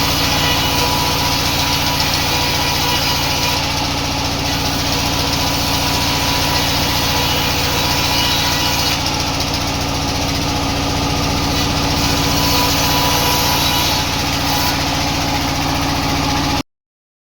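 Sawmill machinery running steadily, a low hum under constant mechanical noise, cutting off suddenly near the end.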